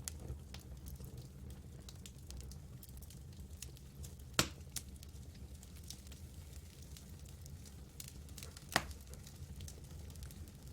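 Campfire burning wood with a steady low rumble and scattered small crackles, and two sharp loud pops, about four seconds apart.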